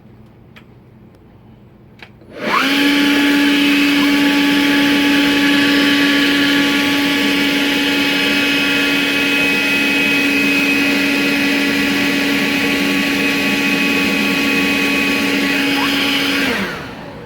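Kobalt 40V battery-powered leaf blower switching on about two seconds in and running at a steady high whine with rushing air, its nozzle fitted into a dryer vent to blow out the duct; it spins down near the end.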